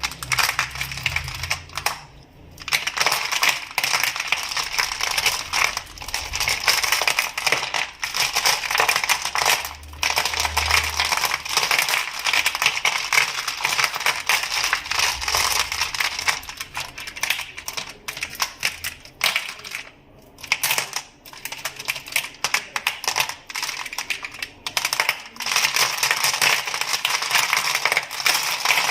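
Crystals clicking and clacking with close handling: a dense run of small, hard clicks that stops briefly about two seconds in and again about twenty seconds in.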